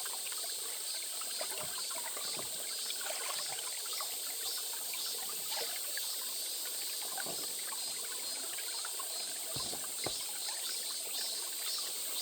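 Small stream trickling and babbling steadily, with many small splashes and plinks of water. Two short low thuds come about ten seconds in.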